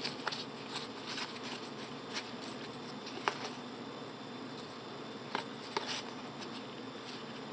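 Trading cards being handled and flipped through, a few soft clicks scattered through a steady faint background hiss.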